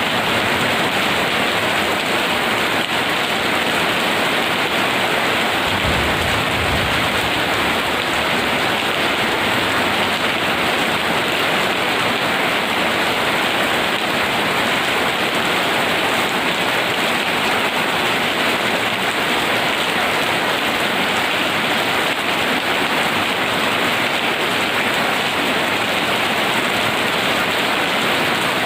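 Heavy rain falling in a steady, even downpour. One brief low rumble sounds about six seconds in.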